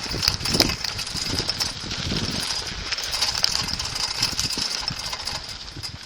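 Bicycle ridden over bumpy, rocky ground, picked up by a phone strapped to the rider's chest: a continuous, uneven rumble with many small knocks and rattles from the bike and the jolting mount.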